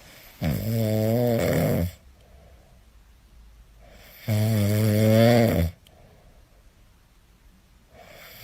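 Loud snoring: two long snores about four seconds apart, each lasting about a second and a half, with faint breathing between them. A third snore starts at the very end.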